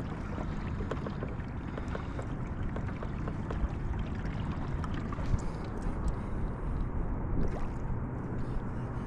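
Water lapping and gurgling against a kayak hull, with a steady low rumble and scattered small clicks.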